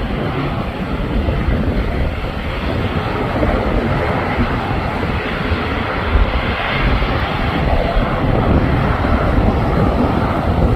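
Jet airliner taking off, its engines at takeoff power making a loud, steady rumble that swells a little through the middle.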